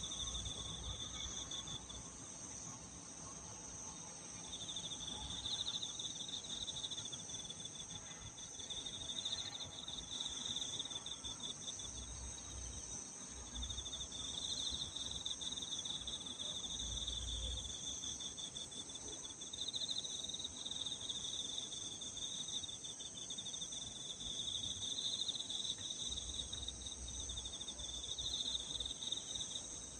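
Chorus of crickets and other singing insects: a steady high trill over a lower pulsing chirp that swells and fades every few seconds.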